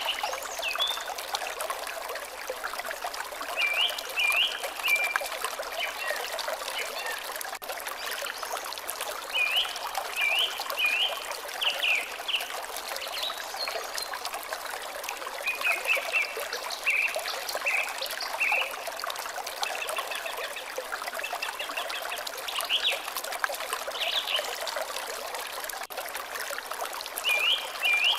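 Water trickling steadily, with a bird calling in short runs of quick chirps every few seconds.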